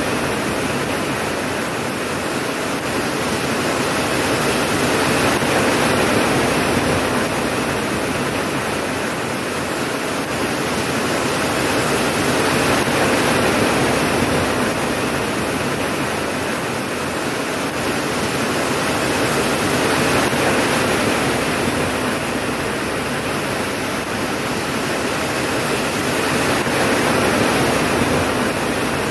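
Steady heavy rain: a dense, even hiss that swells and eases gently every several seconds, with no thunder.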